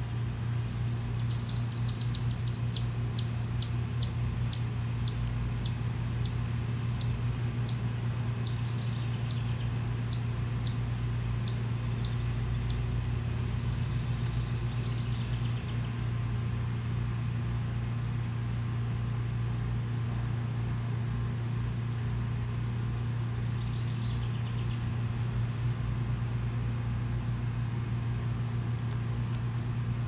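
A bird chirping in a series of short, sharp, high notes, about two a second, stopping about halfway through, over a steady low rumble.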